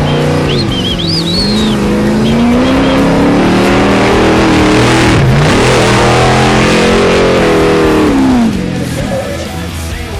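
Off-road race truck engine running hard at high revs, its pitch climbing, then briefly lifting and dipping about five seconds in before pulling back up, and fading out about eight and a half seconds in. Song vocals are heard over the first couple of seconds.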